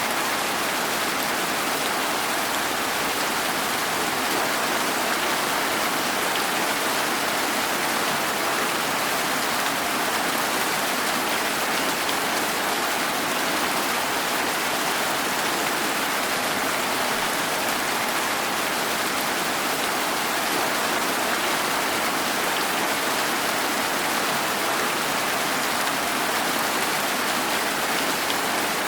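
Steady rain, an even hiss with no breaks or single drops standing out.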